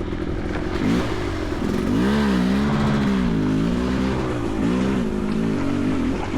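Dirt bike engine running under a rider on a trail, its revs rising and falling as the throttle is worked.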